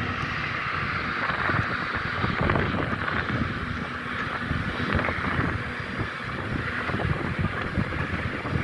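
Wind buffeting the microphone over the low, steady rumble of a train at the station.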